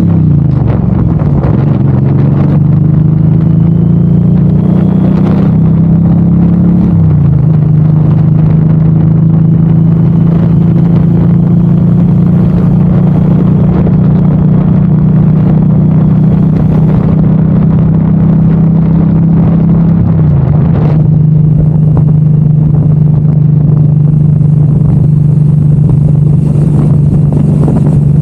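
Suzuki M109R's 1783 cc V-twin engine pulling the motorcycle along at steady speed, with the exhaust note loud at the handlebars. The engine pitch climbs slowly, then drops sharply about seven seconds in and again about twenty seconds in, as the rider shifts up.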